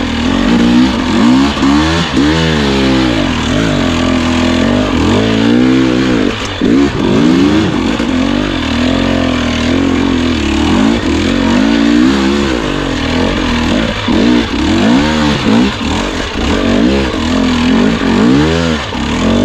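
Husqvarna TE250i two-stroke dirt bike engine revving up and down over and over as the throttle is worked on and off.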